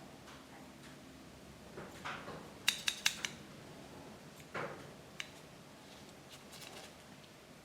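Metal grooming tools clicking and clinking: a quick run of four sharp clicks, then a short swish and one more click.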